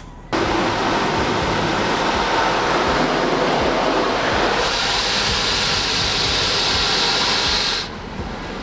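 Steady rushing wind and road noise from a moving car. A brighter hiss joins it about halfway through and drops away shortly before the end.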